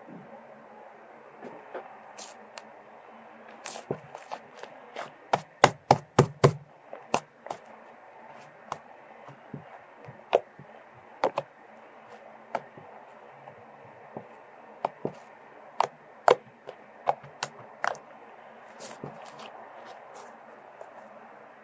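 Hands playing with slime, making sharp popping clicks: a quick run of them about five to seven seconds in, then single pops scattered through the rest.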